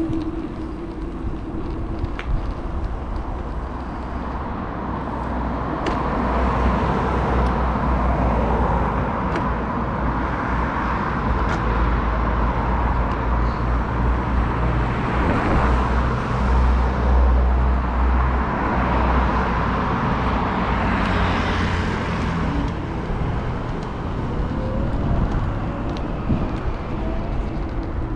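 Wind rumbling on a GoPro's microphone on a moving electric bike, with road traffic passing alongside in swells that rise and fade; the loudest vehicle passes about three quarters of the way through.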